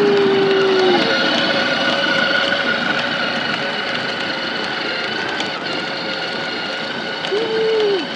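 Four-wheeler (ATV) engine running under way, a steady whine over rushing noise. A high held tone drops away about a second in, and a short one rises and falls near the end.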